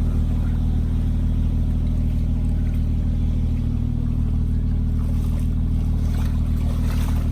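Jeep engine idling with a steady, unchanging drone.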